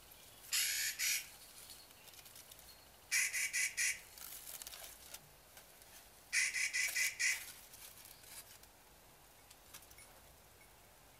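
A bird's rough, chattering calls in three short bouts of rapid notes: one near the start, one about three seconds in and one about six seconds in.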